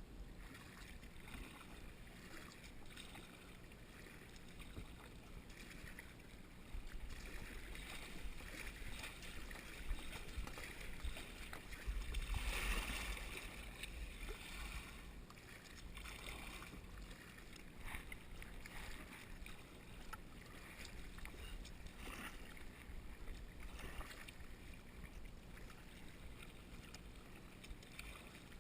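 Kayak paddle strokes: the blades dip and pull through the water with faint splashing and dripping, repeated every few seconds. A louder rush of water comes about twelve seconds in.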